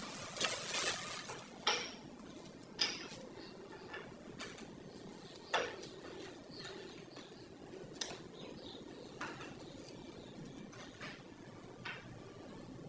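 About ten sharp clinks and knocks of hard objects being handled, scattered at irregular intervals, with the loudest strikes in the first six seconds.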